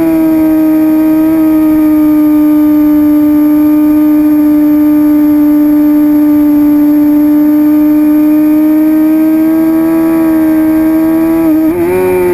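2006 Suzuki GSX-R750's inline-four engine running at high revs at a nearly constant high pitch, easing down slightly at first, then climbing a little, with a brief wobble in pitch near the end.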